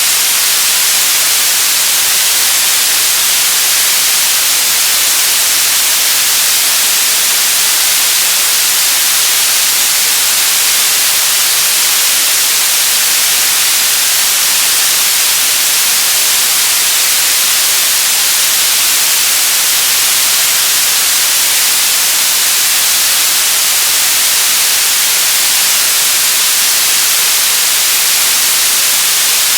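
Television static: a steady, loud hiss weighted toward the high end, unchanging throughout.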